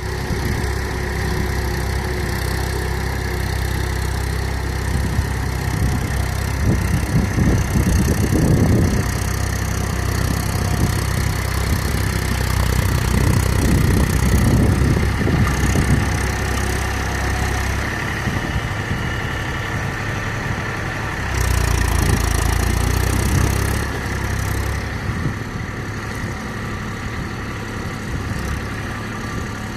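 Eicher four-wheel-drive tractor's diesel engine running as the tractor works in mud, swelling louder several times, most of all from about three-quarters of the way through for a couple of seconds.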